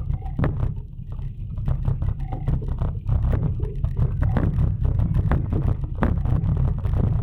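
Wind buffeting the microphone of a camera carried on a moving bicycle, a heavy fluttering rumble, with frequent sharp rattles and knocks as the bike rolls over the road.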